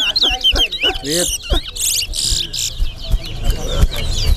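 Towa-towa (chestnut-bellied seed finch) singing in a song competition: rapid runs of quick up-and-down whistled notes, with a stretch of harsher, hissy notes near the middle. Voices murmur underneath.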